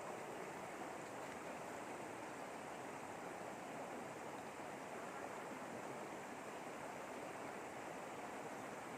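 Steady rush of flowing river water, an even noise with no changes.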